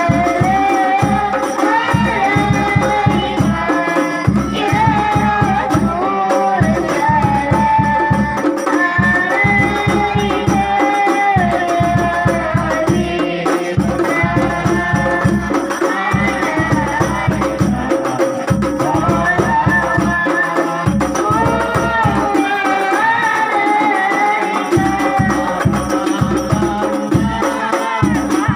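Arabic devotional sholawat singing on a held, winding melody, accompanied by a fast, steady pattern of frame drums and jingling tambourine-like percussion.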